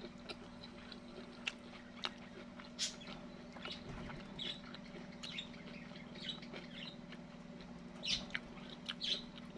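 Close-up chewing of a fried snack ball with a tough crust: small scattered clicks and crackles of the mouth working the food, over a steady low hum.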